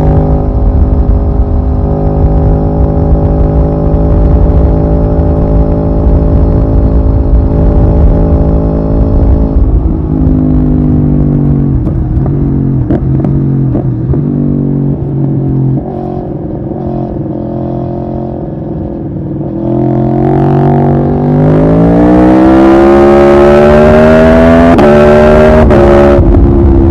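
Aprilia Tuono V4R's V4 engine heard from the rider's position under wind rumble. It holds a steady speed for about ten seconds, then the revs fall in steps as it slows and downshifts, and it runs quieter for a few seconds. From about two-thirds of the way in it accelerates hard, revs climbing steeply, with an upshift near the end.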